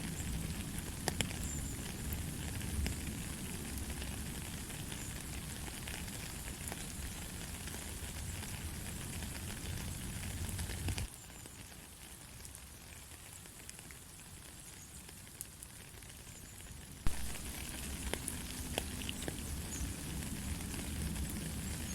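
Steady light rain: an even hiss with scattered sharp drop ticks. About 11 seconds in it suddenly turns quieter for some six seconds, then comes back just as abruptly with a loud click.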